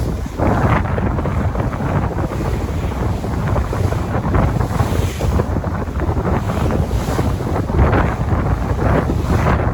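Sea waves washing in, with wind buffeting the microphone as a steady low rumble.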